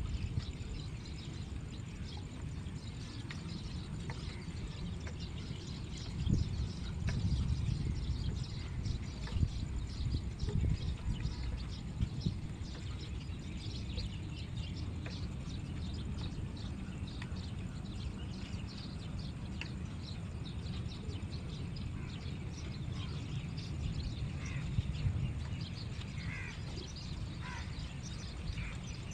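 Many birds chirping and calling, with a few clearer calls near the end and a steady low rumble underneath.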